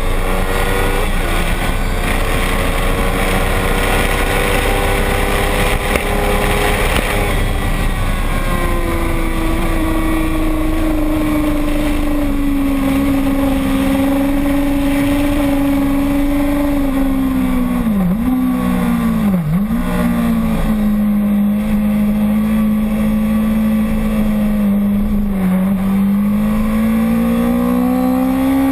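Racing motorcycle engine running hard at high revs, its note easing slowly down and then climbing again near the end, with two brief dips in revs about two-thirds of the way through, over steady wind rush.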